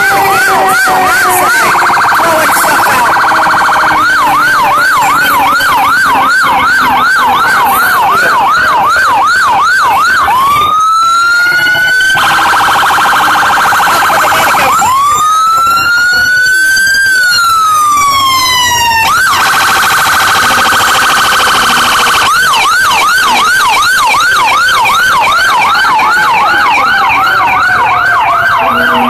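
Fire truck sirens. An electronic yelp siren sweeps rapidly up and down, and twice it gives way to a wailing siren tone that climbs in pitch, about ten seconds in and again about fifteen seconds in. The second wail then slides back down before the yelp resumes.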